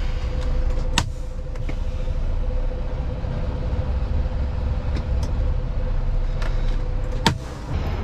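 Semi-truck diesel engine running with a steady low rumble and a steady hum. A sharp clack comes about a second in and a louder one near the end, as the hum stops.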